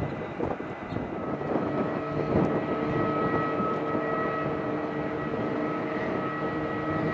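Jet airliner's engines running: a steady roar with a whine of several steady tones that sets in about a second in.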